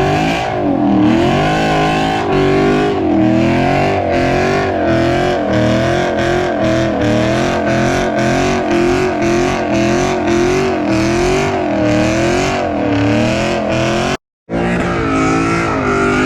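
A car's engine held at high revs during a burnout, with tyres squealing in a long, wavering pitch. The sound cuts out abruptly for a moment near the end.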